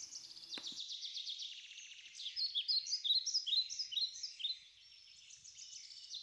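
Birdsong: rapid trills and short repeated falling chirps, loudest in the middle.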